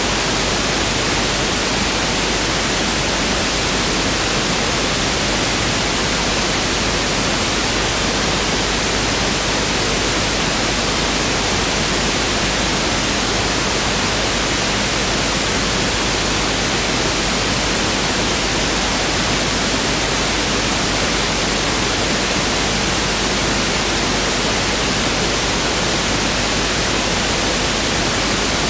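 Pink noise (1/f noise) test signal: a steady, even hiss that does not change.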